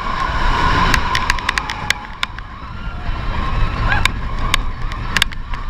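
Roller coaster train running along its track: a steady low rumble with many sharp rattling clicks.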